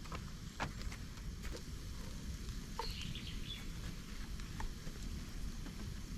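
Fire of dry bamboo pieces and twigs burning in a fire stand, crackling with scattered sharp pops over a low steady rush of flame.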